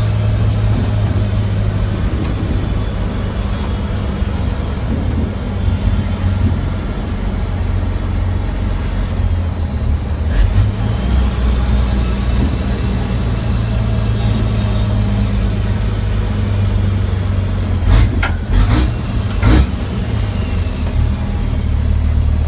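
Heavy diesel truck engine running at a steady low pitch, with a few sharp knocks near the end.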